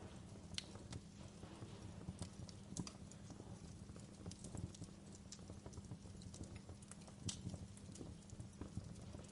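Fire crackling in a fireplace: irregular sharp pops and snaps over a low steady rumble. The loudest pops come about half a second in and about seven seconds in.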